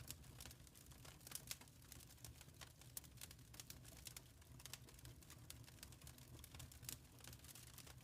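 Faint wood fire crackling, with many small irregular pops and snaps over a low steady rumble.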